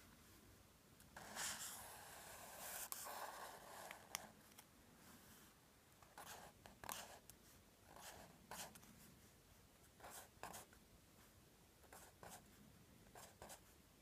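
Faint sound of a drawing tool scratching on paper: a few seconds of continuous back-and-forth shading starting about a second in, then short separate strokes about once a second.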